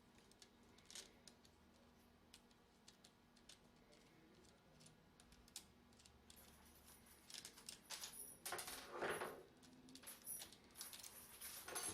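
Faint, scattered small metal clicks and rattles of an 11/32 nut driver working a lock nut off a Columbia automatic taper head and lifting away the chain guard. The clicking grows busier and louder in the second half.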